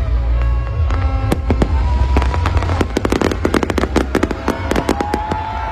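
Aerial fireworks going off: a rapid string of sharp crackling reports starting about a second in and coming thickest around the middle, over a continuous low rumble of shell bursts.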